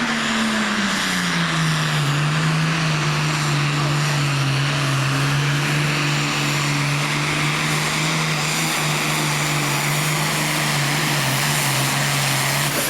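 Diesel pulling engine running flat out under load: a steady, loud drone that sags a little in pitch over the first couple of seconds and then holds, under a heavy hiss of exhaust and turbo, stopping near the end.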